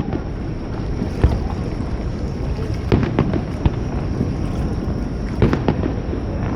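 Fireworks bursting overhead: several sharp bangs, about a second in, around three seconds in and again near five and a half seconds, over a steady low rumble.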